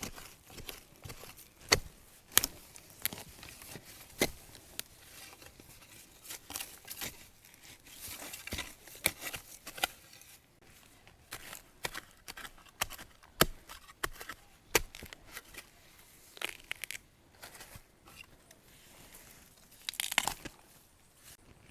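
Rustling and crackling of dry bamboo leaves and undergrowth being pushed through and handled, with many sharp snaps and clicks scattered throughout and a longer rustle near the end.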